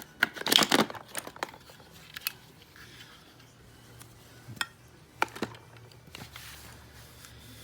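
Handling noise: a quick flurry of clicks and crinkling in the first second, then scattered single clicks as small objects are handled.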